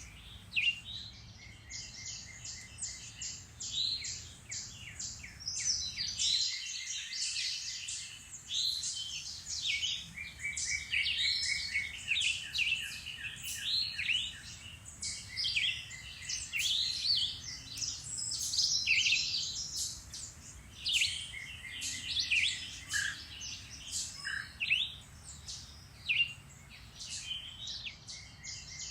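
Several woodland songbirds singing and calling at once, a dense chorus of overlapping chirps and quick trills of rapidly repeated notes.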